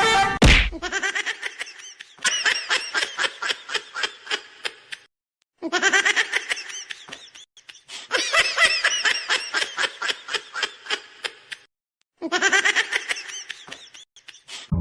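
Hearty human laughter in several long bouts of rapid ha-ha pulses, about four or five a second, with short breaks between bouts and a brief loud burst at the very start.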